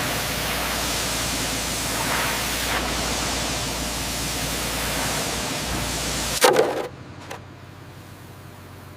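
Loud, steady hissing noise like static that cuts off abruptly about six and a half seconds in with a short knock, leaving a much quieter background.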